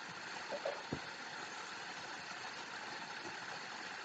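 Steady rush of a waterfall, an even noise, with a couple of faint short sounds about half a second and a second in.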